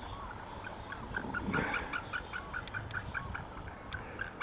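Birds honking: a rapid run of short, goose-like calls, about four a second, starting about a second in, over a steady low background noise.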